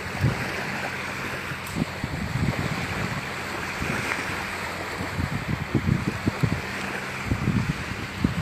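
Surf washing on the beach, with wind buffeting the microphone in irregular gusts that come more often in the second half.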